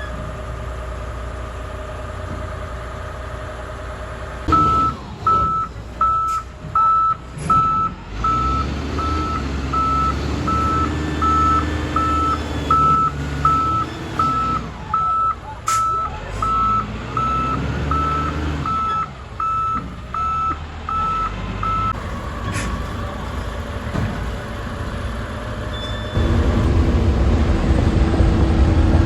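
A heavy diesel vehicle's reversing alarm beeps evenly, about three beeps every two seconds, for some seventeen seconds over the engine running and changing pitch. The beeping stops, and near the end the engine grows louder.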